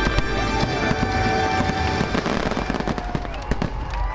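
Aerial fireworks bursting overhead: a rapid, dense run of sharp bangs and crackles.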